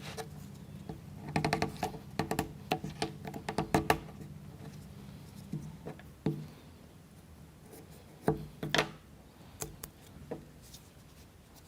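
Sharp clicks and taps of small wooden kit parts being worked by hand, as toothpicks are pushed through a model wheel and their ends cut off. A dense run of clicks comes in the first few seconds, then scattered single ones.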